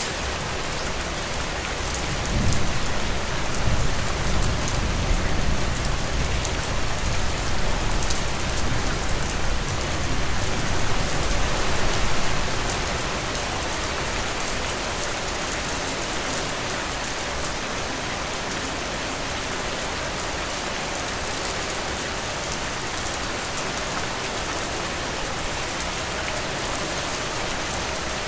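Heavy rain falling steadily as a dense, even hiss. A low rumble swells under it from about two seconds in and fades out around twelve seconds.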